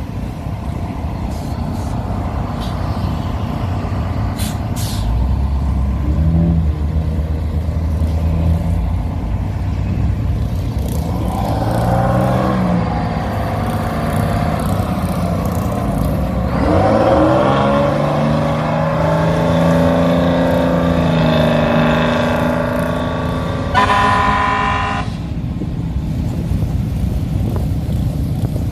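Show cars, hot rods and classics among them, driving out one after another, their engines running and rising in pitch as they pull away. Near the end comes a short horn-like blast that stops abruptly.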